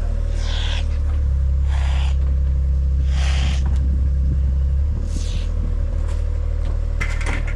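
A machine's engine running with a steady low drone that gets louder about a second in and drops back near five seconds, with short hissing noises every second or so.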